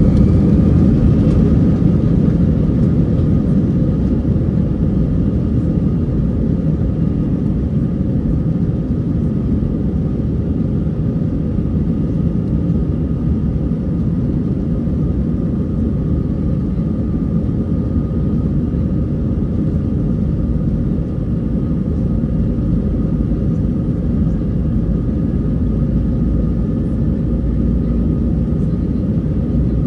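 Steady low rumble of an Airbus A320's jet engines and airflow heard from inside the cabin, with a faint steady whine over it.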